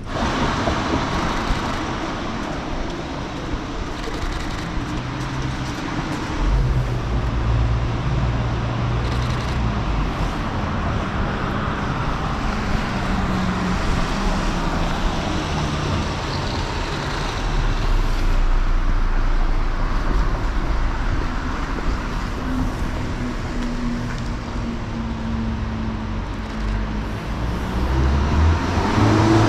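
City street traffic: motor vehicles running and passing, a steady wash of road noise with a low engine hum that grows heavier about six seconds in.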